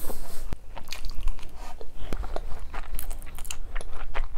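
Close-miked chewing of a mouthful of tteokbokki, with many irregular small wet clicks and smacks of the mouth.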